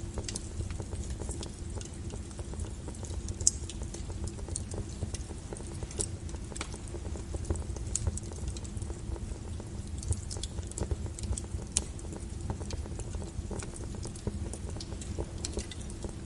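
Wood fire of burning logs crackling, with a steady low rumble of flames and irregular sharp pops and snaps, a few louder ones scattered through.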